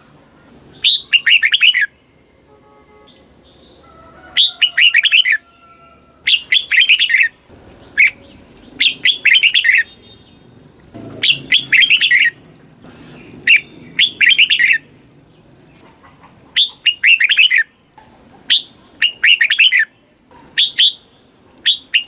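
Red-whiskered bulbul singing: short phrases of quick warbled notes, repeated about every two seconds.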